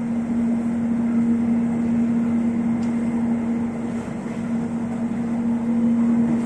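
Electric airport train running at speed, heard from inside the passenger car: a steady droning tone over the train's running noise.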